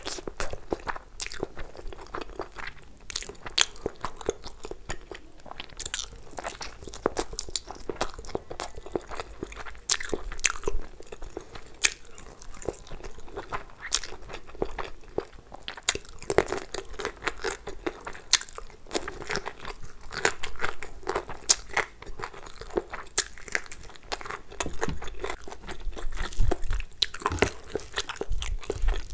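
Close-miked eating sounds: a person biting and chewing saucy masala chicken off the bone and egg fried rice, with wet lip smacks and sticky mouth clicks coming irregularly throughout.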